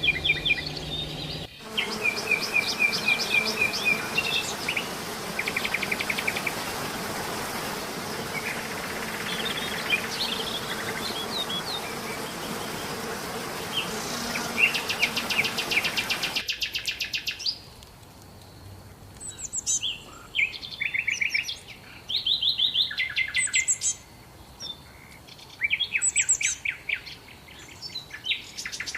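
Several small songbirds singing: quick trills and chirps, then clear repeated descending phrases. For the first half they sit over a steady hiss. About halfway through, the background drops suddenly and the birdsong stands out.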